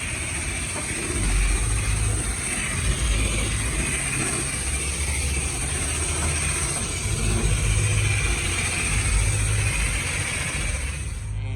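Car-wash high-pressure wand spraying water onto a pickup truck, a steady hiss with a low, uneven rumble under it, cutting off suddenly near the end.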